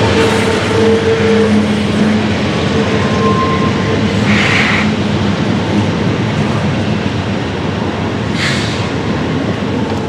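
Freight train passing close by: a steady rumble and rolling-wheel noise from the cars, with two short bursts of hiss about four and eight seconds in.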